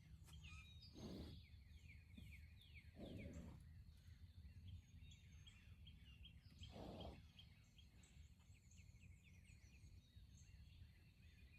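Faint birdsong: many small, quick chirps. Three brief soft rustles break in about one, three and seven seconds in.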